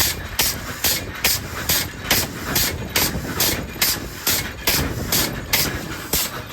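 A metalworking machine striking in a steady rhythm, about two and a half sharp strokes a second, over a constant machinery noise.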